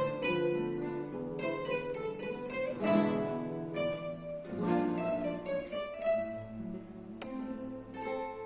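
Guitar ensemble playing a Spanish dance, with plucked melody notes over chords. A sharp strummed accent comes about seven seconds in, and the sound rings out and fades near the end.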